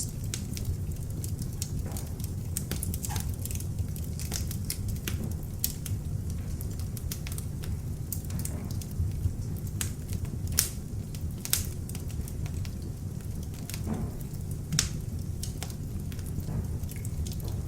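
Beech-wood log fire burning in an open fireplace: a steady low rumble of the flames with irregular sharp crackles and pops from the wood, several louder pops about two-thirds of the way through.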